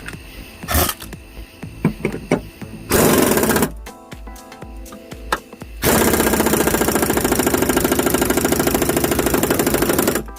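Impact wrench hammering against a seized mower-deck spindle nut. A short burst comes about three seconds in, then a long run of rapid, even blows from about six seconds on.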